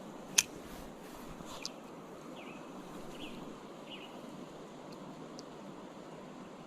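Steady creek-side water noise, with a sharp click about half a second in, a softer click just after the first second, and a few short, faint chirps.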